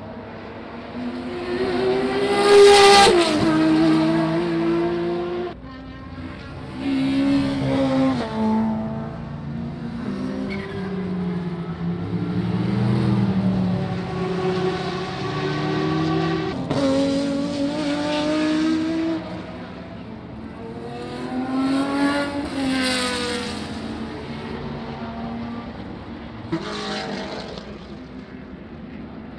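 Historic racing cars' engines at full throttle going past one after another, each engine note dropping in pitch as the car passes. The loudest pass comes about three seconds in.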